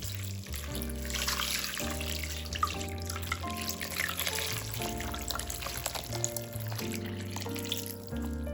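Water running from a tap into a sink for about eight seconds, starting suddenly and stopping shortly before the end, over background music.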